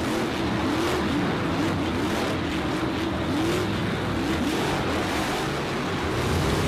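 Racing-car engine sound, revving up and down in short repeated sweeps over a steady hiss.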